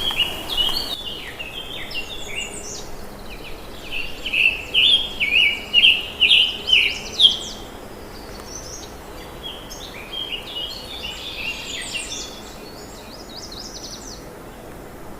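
Several wild birds singing and chirping over a steady background hiss. A few seconds in comes a louder run of about seven quick phrases, some two a second, followed by softer scattered chirps.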